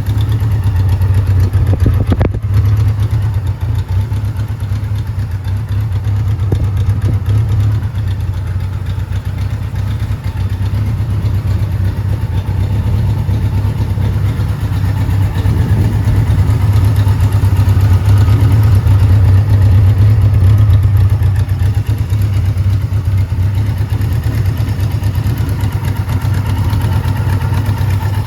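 A 1979 Kawasaki Z1000ST's 1015 cc inline-four engine, fitted with pod air filters, idling steadily. There is a single click about two seconds in.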